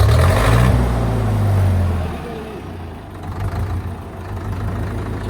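Tractor diesel engine revving hard for about two seconds, then dropping back to a steady lower run.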